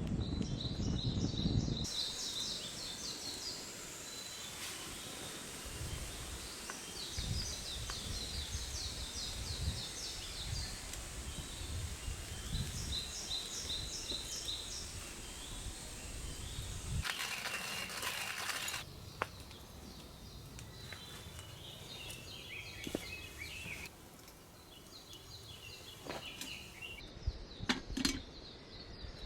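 Higurashi (evening cicadas) calling in repeated phrases of fast, even pulses, some falling in pitch, over a steady hiss of outdoor ambience.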